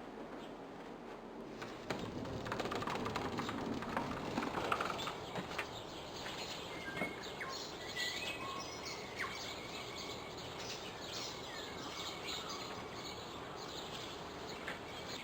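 Several small birds chirping and calling, with short whistled notes, over a steady background hiss.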